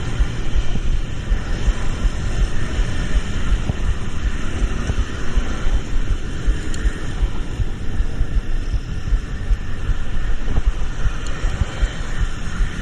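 Steady running noise of a moving road vehicle, with a low rumble and wind buffeting on the microphone.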